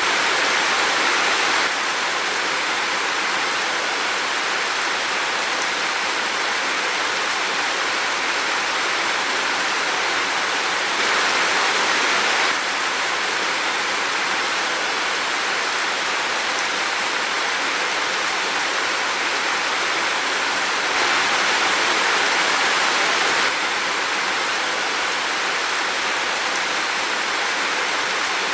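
Heavy, windy rainfall making a steady, even rushing hiss. A few times it steps slightly louder for a second or two.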